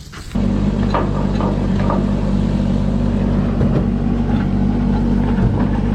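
Vehicle engine running steadily, with a low even hum that comes in abruptly about a third of a second in.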